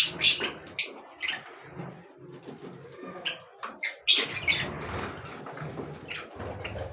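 Birds calling in short, sharp chirps scattered through, with a loud burst at the start and another about four seconds in.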